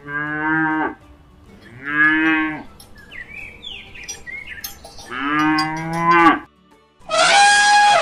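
Cows mooing: three long, low calls, with faint bird chirps between the second and third. Near the end, after a brief silence, an elephant gives a loud, high trumpet call.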